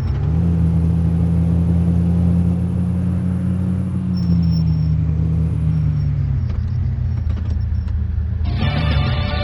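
Car engine drone while driving, its pitch rising slightly about half a second in and falling away in the middle as the car slows. Music starts suddenly near the end.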